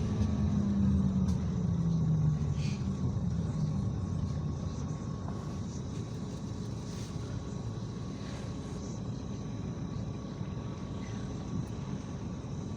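IVECO Crossway 13M PRO city bus's diesel engine and drivetrain, the note falling and quietening over the first few seconds as the bus slows, then a steady low rumble.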